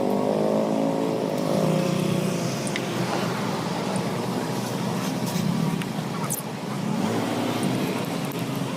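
Motorcycle engine running while riding, its note rising and falling a little over a steady rush of road and wind noise.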